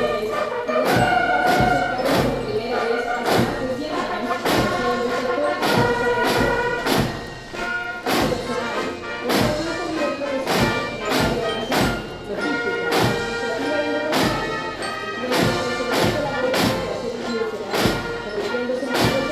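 Military band playing a march: a brass melody over a steady bass drum beat.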